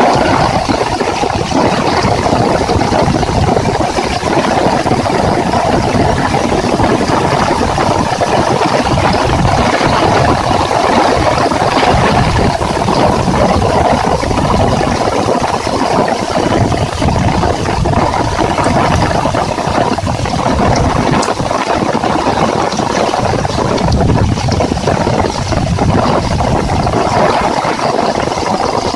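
Heavy rain falling in a steady, dense patter.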